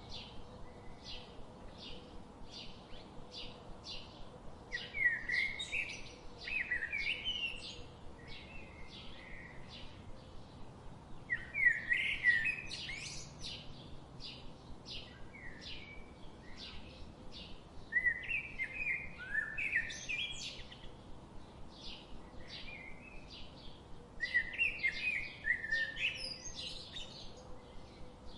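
Birds chirping and singing: a steady run of short, high chirps about two a second, broken four times by louder warbling phrases that slide up and down in pitch.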